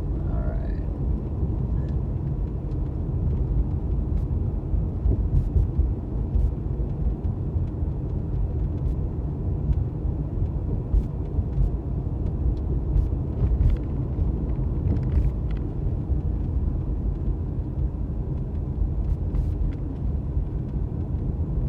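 Road noise heard from inside a moving car: a steady low rumble of tyres and engine, with a few faint ticks scattered through it.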